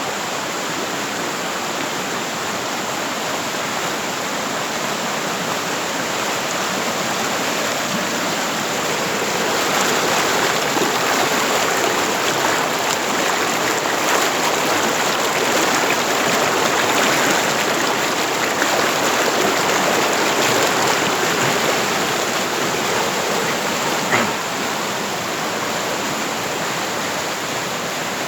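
Fast-flowing stream rushing steadily, growing louder about ten seconds in and easing back after about twenty seconds, with a single brief click near the end.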